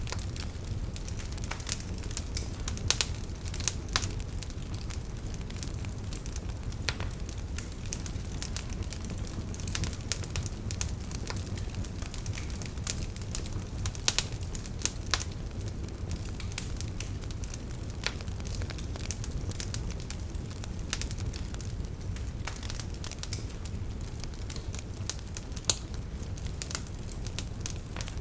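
Campfire burning: wood crackling and popping at irregular moments over a low, steady rumble of flame, with a few louder pops.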